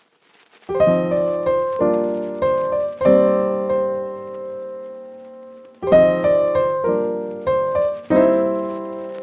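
Background music: slow piano chords played in phrases, each note decaying, with one long held chord in the middle.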